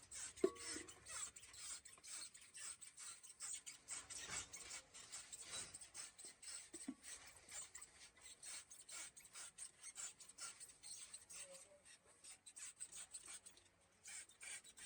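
Faint, quick, irregular rubbing and scraping strokes made by hand, with a brief pause near the end.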